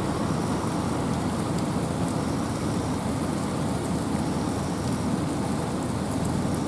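Wind and rain: a steady, even wash of low noise with faint scattered raindrop ticks over it.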